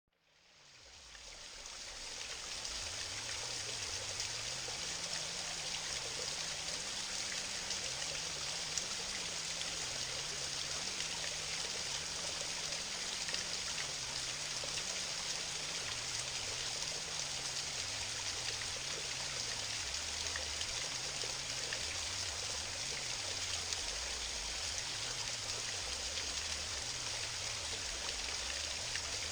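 Waterfall on a mountain stream: water rushing and splashing steadily, fading in over the first two seconds.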